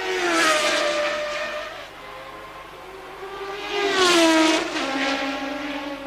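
1983 Formula One cars passing at racing speed, each engine note dropping in pitch as the car goes by: one pass near the start and another about four seconds in.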